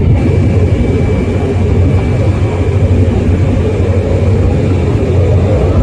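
Loud, steady low rumble of a fighter jet's engine during an aerobatic display.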